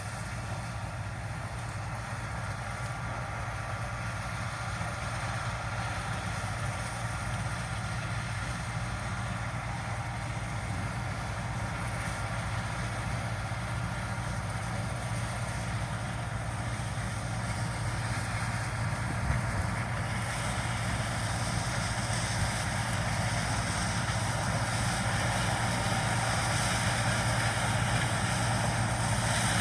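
John Deere combine harvester's diesel engine running steadily with a deep hum, growing gradually louder over the half-minute.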